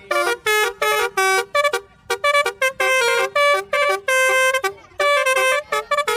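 Telolet bus horn playing a quick tune: a run of short, loud horn notes jumping between several pitches, with brief gaps between them.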